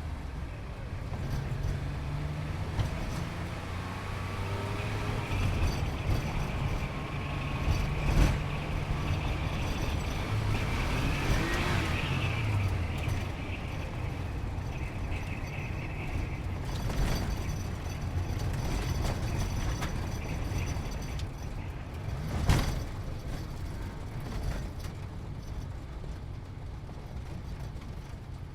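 Sports car engine running, its pitch stepping up and down as it changes speed and gear. There are sharp knocks about eight seconds in and again later, the second the loudest.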